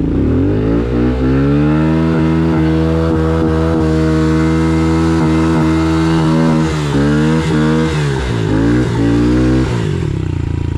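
Honda CRF110F dirt bike's small single-cylinder four-stroke engine pulling up through the revs, then held at a steady high rev for several seconds. In the second half the revs rise and fall with brief breaks in the sound, then drop away near the end.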